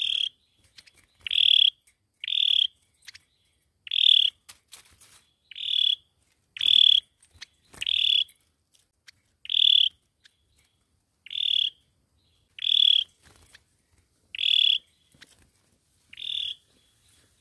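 A sâu dừa bird giving a short, high call over and over, about one every second and a half, each call alike, with near silence between.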